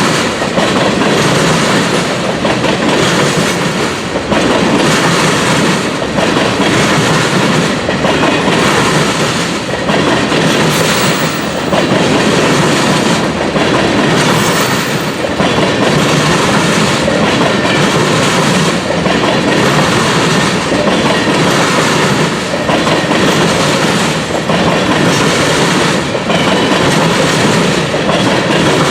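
Loaded tank cars of a long ethanol freight train rolling past at speed. Steady wheel and rail noise, with the clickety-clack of the trucks coming round again about every two seconds as each car goes by.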